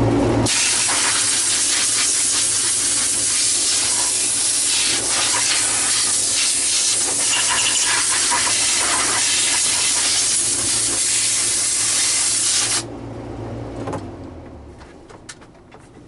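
Compressed-air nozzle blowing dust out of a vacuum power head: a loud, steady hiss that starts abruptly about half a second in and cuts off suddenly a few seconds before the end, over a low hum that fades out shortly after.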